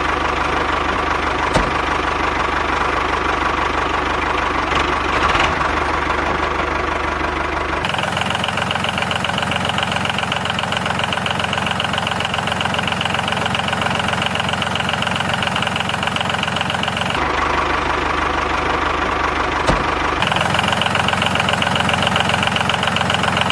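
Small engine of a DIY miniature tractor running steadily. Its sound changes abruptly about eight, seventeen and twenty seconds in, where the clips are cut together.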